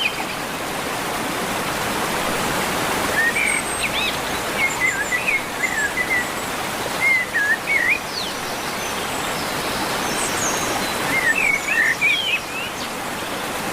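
Steady rush of a waterfall, with a songbird singing over it in three short warbling phrases of quick rising and falling notes.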